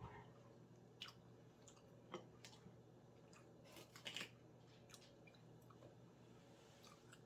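A person chewing a bite of chicken wing, with soft crunches and clicks every second or so, the strongest cluster about four seconds in.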